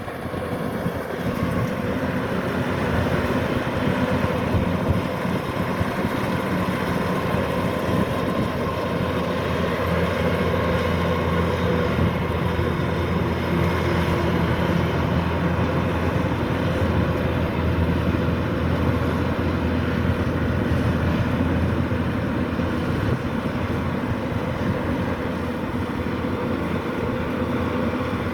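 Kubota combine rice harvester's diesel engine running steadily at working speed, with no change in pitch or level.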